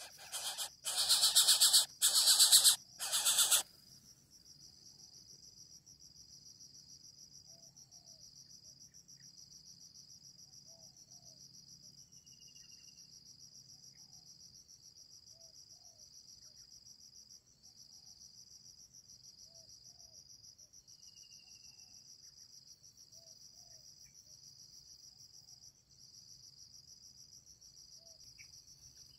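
Coucal chick giving harsh hissing begging rasps in four short bursts over the first few seconds. After that comes a faint, steady, pulsing insect trill like a cricket's, with a few soft chirps.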